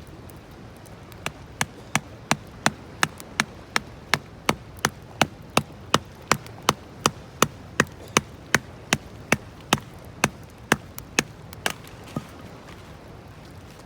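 A steady run of about thirty sharp knocks, close to three a second, starting about a second in and stopping near the end.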